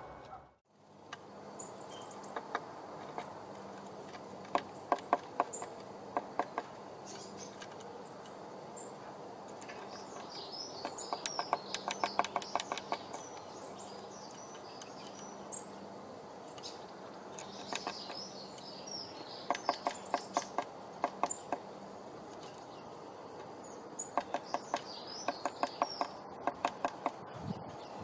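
Small songbirds chirping in four short bouts of high calls, each bout mixed with quick runs of clicks, over a faint steady hum.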